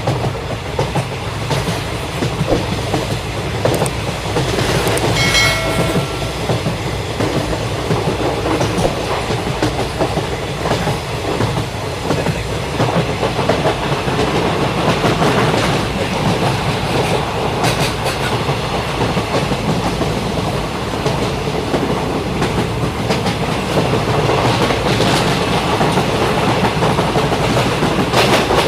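A train running along the track, its wheels clattering over the rails, with a short high-pitched tone about five seconds in.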